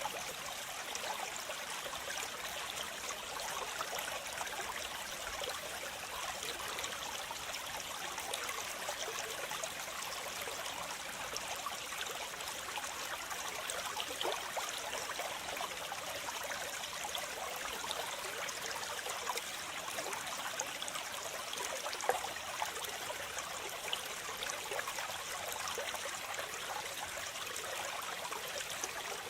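Waterfall: a steady rush of falling and splashing water, with small splashes flecking through it.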